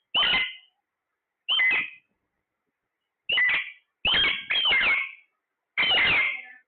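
A parrot giving six short, high-pitched squawks at uneven intervals, each call bending in pitch, with silence between them.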